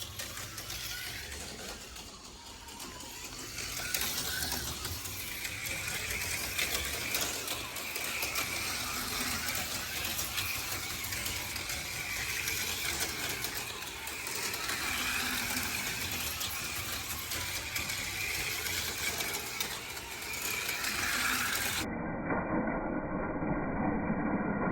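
HO-scale slot cars running laps on a plastic track: small electric motors whining and rattling, the whine swelling and fading as the cars speed up and slow. The sound changes abruptly near the end.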